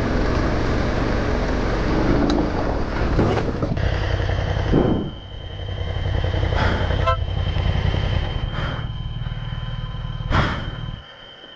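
Motorcycle engine running under rushing noise, with a few knocks during a crash, and a steady high-pitched whine starting about four seconds in.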